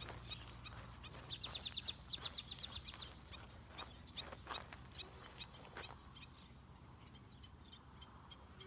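Wild birds calling: two quick high trills of rapid repeated notes about a second and a half in, with scattered short chirps before and after.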